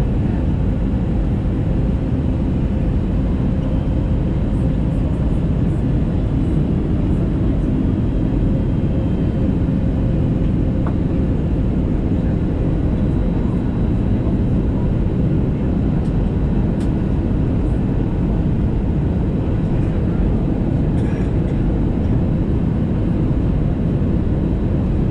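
Steady cabin noise of an Airbus A320neo with CFM LEAP-1A engines on its approach, engine and rushing airflow heard from inside the cabin, strongest in the low end.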